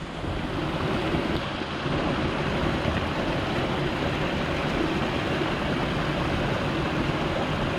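Steady rushing of floodwater in a rain-swollen creek, swelling over the first second or two and then holding steady and loud.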